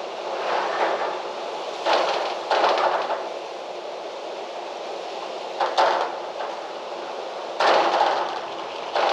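Gusty wind rustling through trees, swelling and easing in surges every second or two, with a short sharp rattle about six seconds in.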